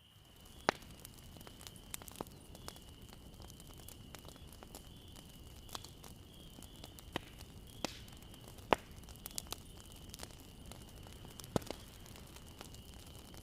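Bonfire burning: burning wood crackling, with irregular sharp pops and snaps over a soft steady rush of flame.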